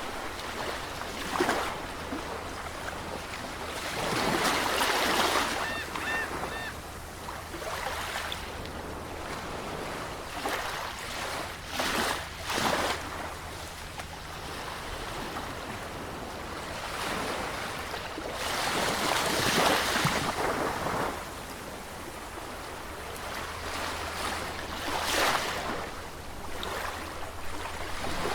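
Sea surf: waves breaking and washing in, swelling in surges every few seconds between lulls of steady wash. A few short, faint high chirps come about six seconds in.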